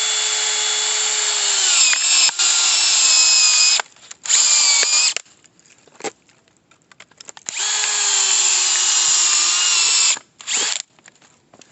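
Hammer drill set to first gear and screw mode, driving a 42 mm screw-cone firewood splitter bit into a log. The motor whine drops in pitch as the bit bites under load. It runs in three long stretches, the last ending about ten seconds in, followed by a short burst.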